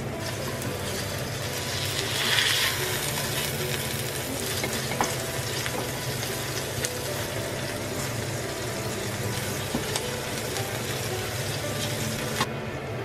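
A ground-meat hamburger patty sizzling as it fries in oil in an enamelled cast-iron pan, with a wooden spatula scraping and tapping against the pan a few times. The sizzle swells about two seconds in as the patty is turned over, then stops abruptly near the end.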